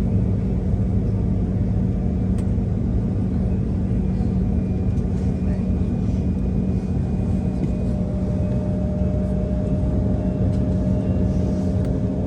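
Steady cabin rumble inside an Embraer E170 on the ground, with a constant low hum; a faint higher steady tone joins about eight seconds in.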